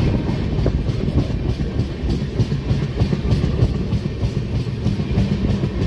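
Passenger train running on the track: a steady rumble of wheels on rail with a rapid, uneven clickety-clack of the wheels passing rail joints.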